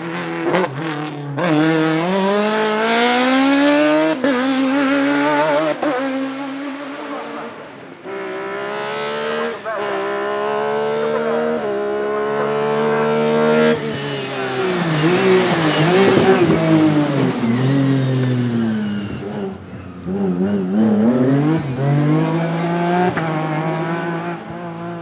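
Hillclimb race car engine at full throttle, its pitch climbing and dropping sharply several times as it shifts up through the gears, then revs rising and falling as it slows and accelerates through turns.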